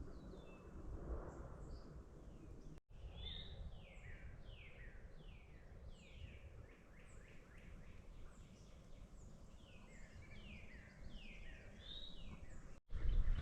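A bird singing: runs of quick falling notes, several a second, over a faint low outdoor rumble. The sound drops out abruptly for a moment about three seconds in and again near the end.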